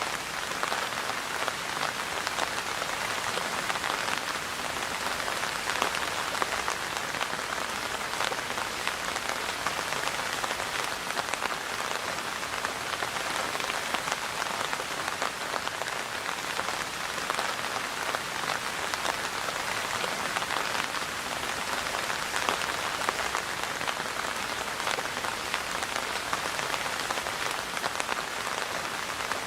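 Steady rain falling, a dense hiss of many drops with fine individual drop ticks on a surface.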